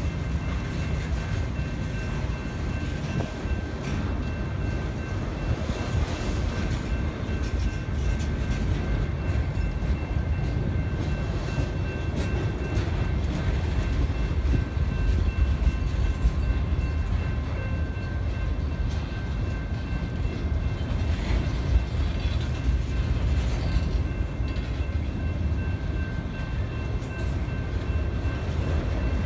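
Freight train of autorack cars rolling past: a steady low rumble of steel wheels on rail, with faint steady high-pitched tones running through it.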